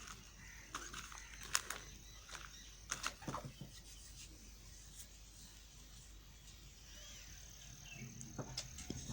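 Knife cutting into a bar of Safeguard Pure White soap: a string of crisp crunches and scrapes in the first few seconds, a quieter stretch, then a few more crunches near the end.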